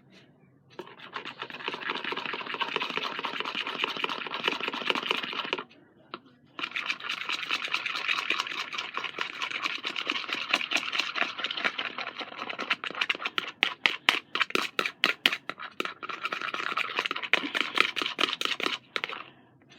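A utensil stirring glue and black ink in a container, scraping steadily. It pauses briefly about six seconds in, and partway through the second stretch the strokes become rapid and separate.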